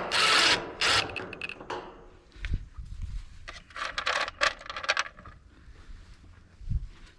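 Metal parts clicking and scraping, with a loud rush of noise in the first second and rattling clicks in the middle.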